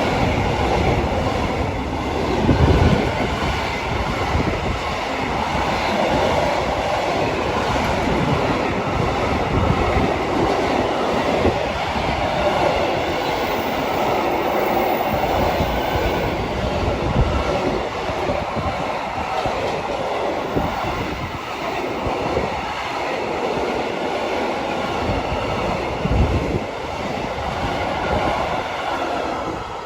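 A train passing through the station on the West Coast Main Line: a continuous rumble of wheels on rails with repeated clattering thuds, fading near the end.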